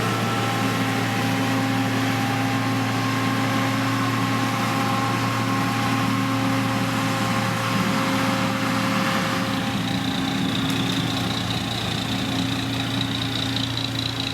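Diesel engine of heavy road-construction equipment running steadily, with a thin high whine joining in about ten seconds in.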